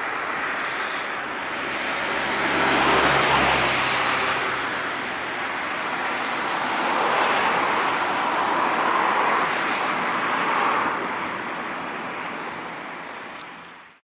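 Jet engine noise of a Boeing 737-800 departing, heard from the ground as a broad rushing sound. It swells twice, then fades out near the end.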